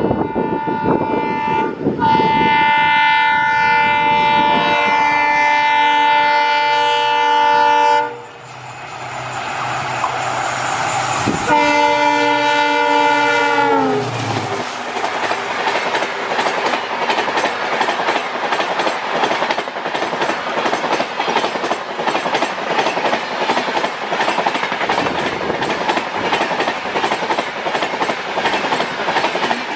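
A WDP-4D diesel locomotive's air horn sounds a long chord, broken briefly near the start, then a second blast that drops in pitch as the locomotive passes at speed. From about halfway, the LHB coaches rush past with rapid, even wheel clatter.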